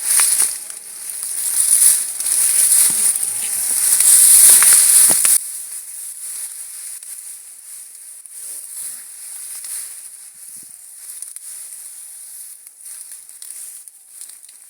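Steady high-pitched hiss with rustling and crackling, loud for about five seconds and then dropping suddenly to quieter scattered rustles and crackles.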